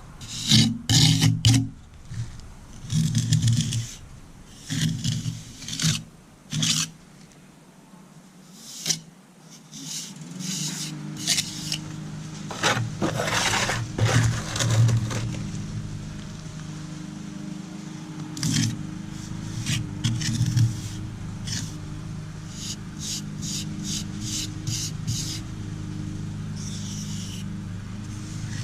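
Hand tool scraping on concrete in short, repeated strokes. From about ten seconds in, a steady engine hum runs underneath the occasional scrape.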